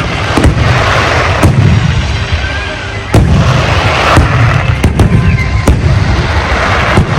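Large fireworks display: rapid, overlapping bangs over a constant crackle and low booming rumble. It eases off slightly, then a sudden loud volley of bursts comes about three seconds in.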